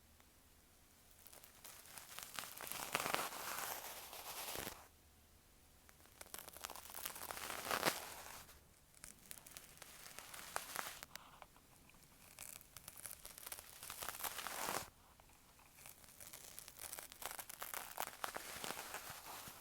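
Bonten, the fluffy down puff of an ear pick, brushed over an earphone microphone, giving a close, crackly rustling. It comes in about five passes of two to four seconds each, with short pauses between.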